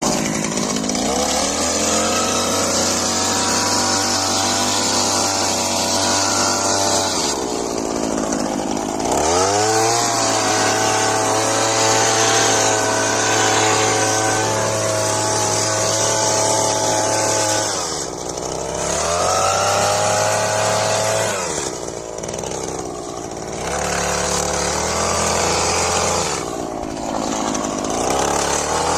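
Small engine of a handheld garden power tool running at high speed. It drops back to idle several times and revs up again with a rising whine.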